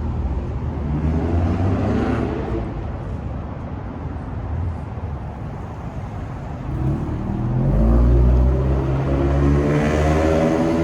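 Car engines running, with one engine building up about two-thirds of the way in and its pitch climbing steadily through the last few seconds, as a car accelerates.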